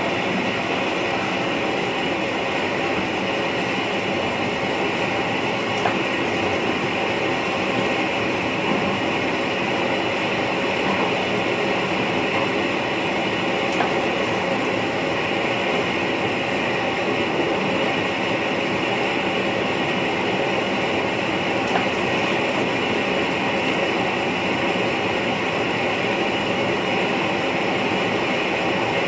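Steady running noise of an NS VIRM double-deck electric multiple unit, heard inside the driver's cab while the train runs along the line, with a few faint clicks.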